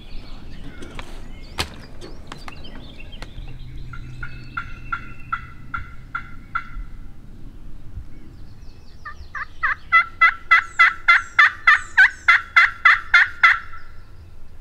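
Turkey calling: a faint run of about ten evenly spaced yelping notes, then, about nine seconds in, a much louder run of about fifteen, some four a second.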